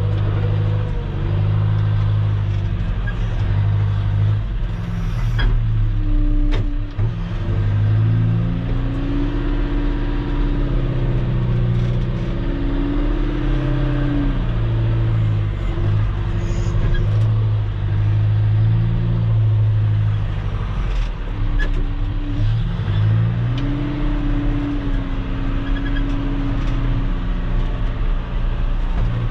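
Engine of a piece of earthmoving equipment running under varying load as it works gravel. Its pitch rises and falls several times as it is throttled up and eases off, with a couple of sharp clanks early on.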